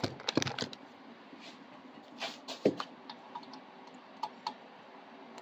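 Scattered light clicks and taps of small tools and metal and plastic printer parts being handled during assembly, a quick cluster in the first second and a few more later.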